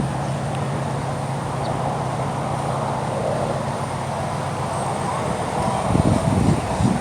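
BMW R1200 flat-twin motorcycle engine idling steadily, with a couple of louder low surges near the end.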